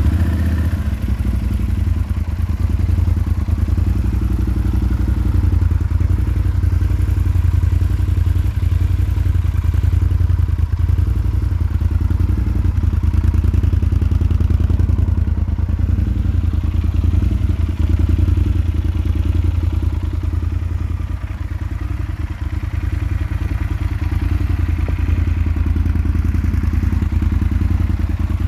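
Yamaha XT1200Z Super Tenere's parallel-twin engine idling steadily through an Akrapovič aftermarket exhaust, with a deep, even exhaust note.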